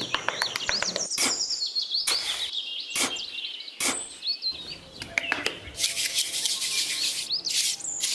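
Small birds chirping, with frequent sharp clicks and knocks throughout.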